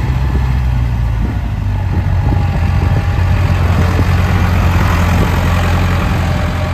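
A vehicle engine running close by at a low, steady speed, its note shifting slightly about a second in.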